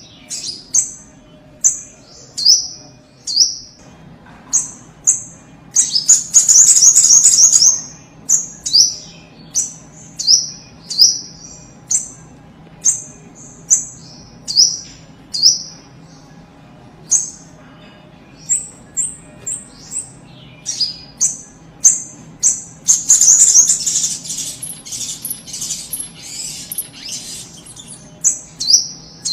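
Little spiderhunter (sogok ontong) calling: a steady series of sharp, high, downward-sweeping notes about one every 0.7 seconds, broken twice by a loud rapid trill, once a quarter of the way in and again past the middle.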